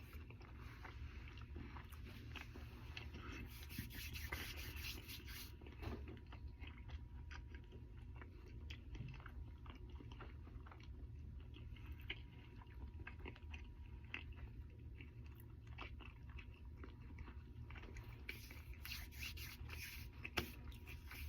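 A person chewing food with the mouth close to the microphone, faint and steady, with many small irregular crunches and wet clicks while wearing diamond grillz on the teeth.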